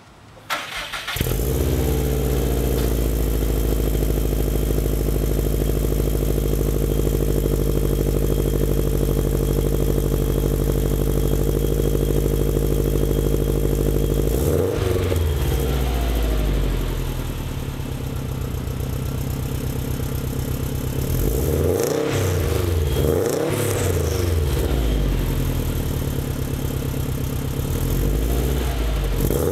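2011 Subaru STI's turbocharged flat-four, through a Lachute Performance catback exhaust and TurboXS downpipe, starting about a second in and idling steadily. It is then revved up and back down: once about halfway, a quick series of blips later, and again near the end.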